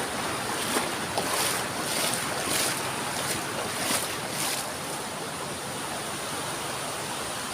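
Steady rush of river water flowing over rocks, with a string of short crisp clicks through the first half.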